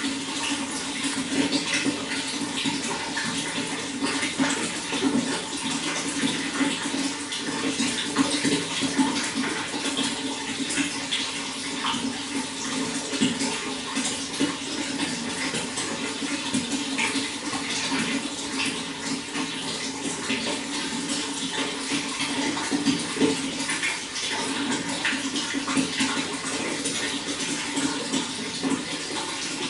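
Running water pouring and splashing steadily, a constant rush with many small, irregular splashes and gurgles.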